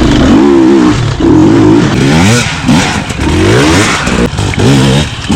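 Off-road dirt bike engine revving, its pitch climbing and dropping back again and again, about once a second.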